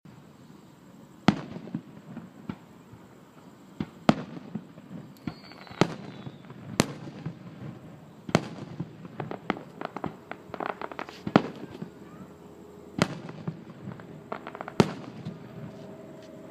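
Aerial fireworks display: sharp booms from shells bursting every second or two, each with a short echo, and bursts of crackle in between.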